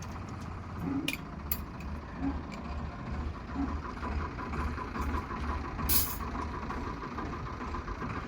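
Tractor diesel engine running with a low, even pulsing, and a few light clicks and one sharper knock about six seconds in.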